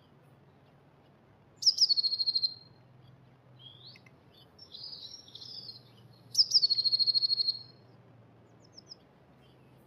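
Blue tit singing twice, each song a few thin high notes running straight into a fast trill, with softer twittering calls between the two songs.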